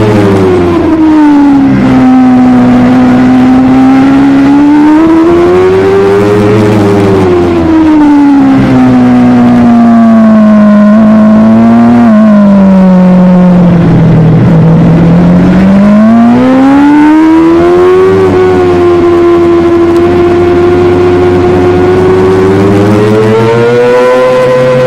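Superbike engine running hard at high revs, its pitch sweeping up and down over several seconds as the throttle and speed change. The pitch dips lowest about midway, then climbs and holds high toward the end.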